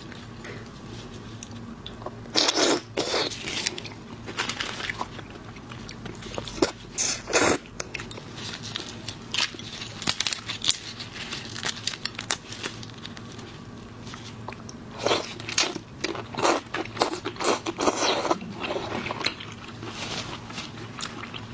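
Close-miked eating of seafood such as shrimp, crunching and chewing with loud crunching bites in clusters, the densest run from about three-quarters of the way in.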